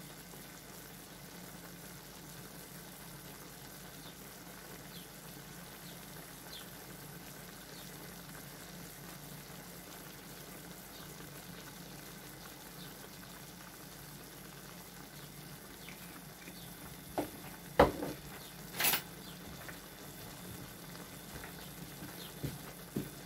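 Chicken strips and chicken liver sizzling steadily in a wok with sauce. Two sharp knocks about three-quarters of the way through.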